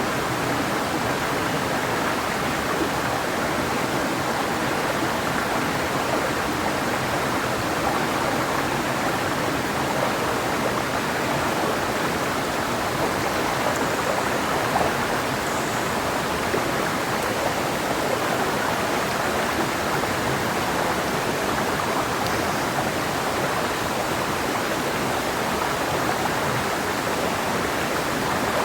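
Clear mountain river flowing over rocks, a steady rushing and burbling of water.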